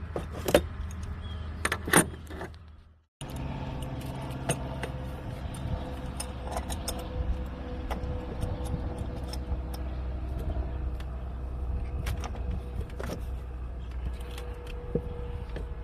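Scattered metallic clicks and clinks of an adjustable wrench being worked onto a van's oil filter, over a steady low hum. The sound cuts out briefly about three seconds in.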